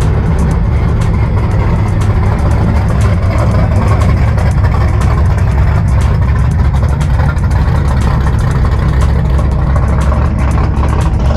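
A car running steadily, with an even, deep engine and road rumble that holds level throughout.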